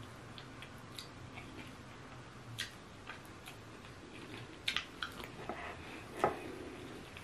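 Quiet eating sounds of eba and egusi soup eaten by hand: scattered soft clicks and lip smacks of chewing, with a few sharper clicks from about two and a half seconds in.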